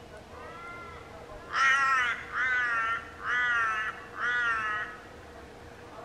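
A bird calling: one faint call near the start, then four loud, harsh, nasal calls in a row, each about half a second long.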